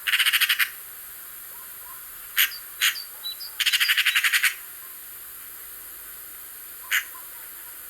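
Eurasian magpie alarm call: a harsh, rapid rattling chatter. There are two rattles, one at the start and a longer one about three and a half seconds in, with single harsh notes between them and near the end. Faint chirps of other birds sound over a steady hiss.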